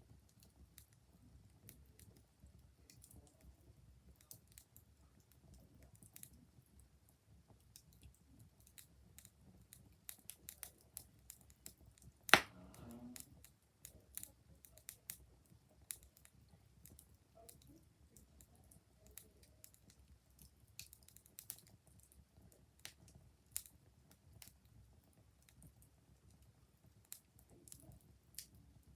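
Wood fire crackling: scattered small snaps at uneven intervals over a low, steady hiss, with one loud pop about twelve seconds in.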